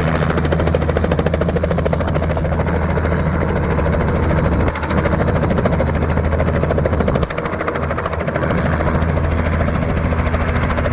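Robinson R66 turbine helicopter's main rotor beating steadily with a low hum as the helicopter comes in to land, the level dipping briefly twice.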